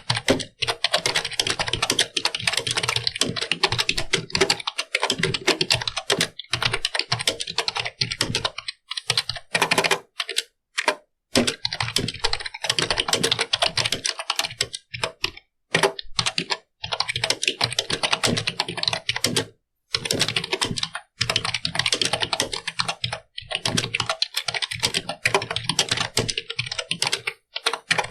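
Fast typing on a computer keyboard: dense runs of key clicks broken by short pauses, with a longer break about ten seconds in.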